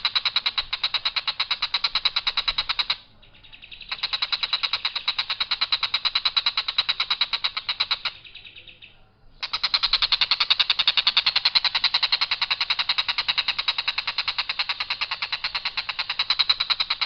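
Tengkek buto kingfisher calling: long bouts of harsh notes repeated very fast in one unvaried line. It breaks off for about a second twice, about three seconds in and again about eight seconds in.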